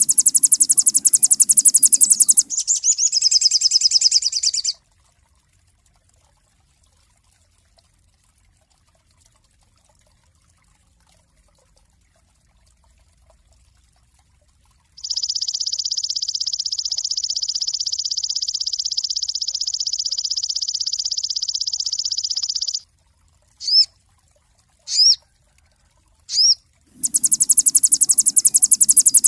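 Sogon songbird singing: very fast, even, high-pitched trills, the first running into a falling warbled phrase. After a long pause comes a sustained trill of several seconds, then a few short rising whistles and another fast trill near the end.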